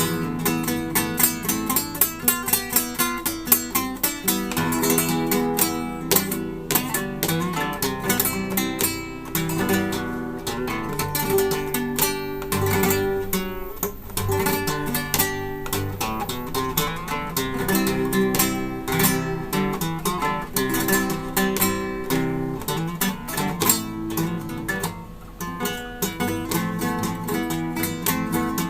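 Acoustic guitar played solo, with fast plucked notes and strummed chords in a flamenco-like style.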